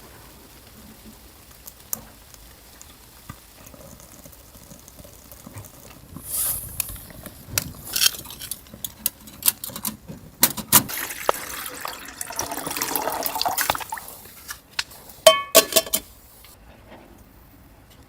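Liquid being poured and camp cookware handled, with scattered clicks and clinks, a stretch of pouring in the middle, and a ringing metal clink near the end.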